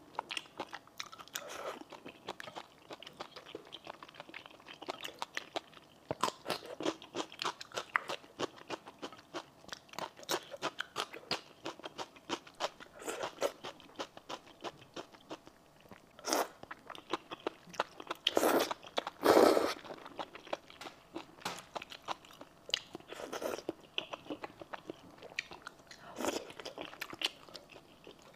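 Close-miked eating of thick noodles in a spicy red sauce: wet chewing and many small mouth clicks. A few louder, longer sounds come about two-thirds of the way in.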